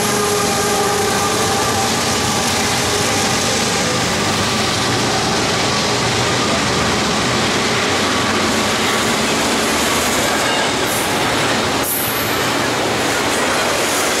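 BNSF double-stack intermodal freight train rolling past close by at speed: a loud, steady rumble and rattle of the container cars' wheels on the rails, with a few faint steady tones dying away in the first few seconds.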